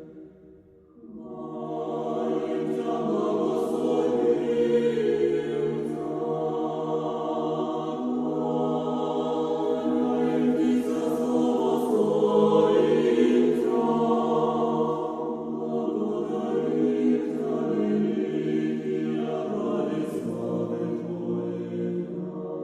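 Background music: a choir singing a slow chant with long held chords, coming in after a brief dip about a second in.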